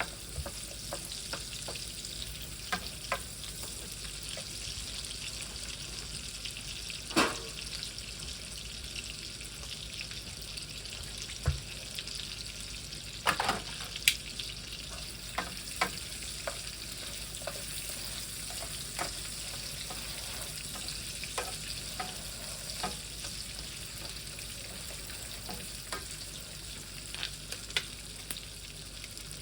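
Cubed roasted potatoes and onion frying in fat in a pan: a steady sizzle with scattered crackles and a few louder clicks.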